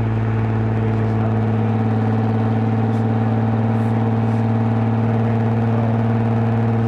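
2010 Lexus IS250 AWD's V6 engine and aftermarket full exhaust with valved mufflers, running at a steady engine speed while cruising: an even, unchanging drone.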